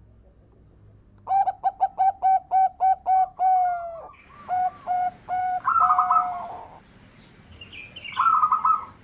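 Zebra dove (perkutut) cooing. A run of about eight quick, clipped coo notes is followed by a few spaced coos and a rolling, higher trill, and a second trill comes near the end.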